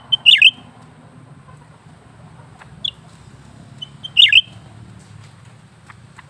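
Cucak ranting leafbird calling: two loud, short phrases about four seconds apart, each a quick clipped note followed by a sharp downward-sweeping chatter, with a single brief note between them.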